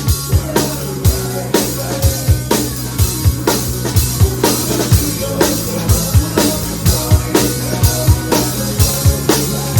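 Live rock band playing an instrumental stretch with no vocals: a drum kit keeps a steady driving beat of kick drum and snare hits over a held bass line.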